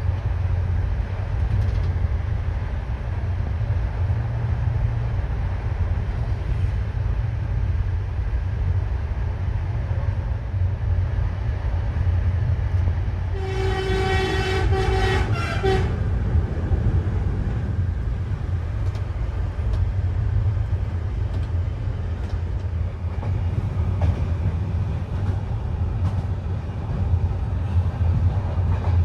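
Train running with a steady low rumble, and a train horn sounding once for about two and a half seconds halfway through.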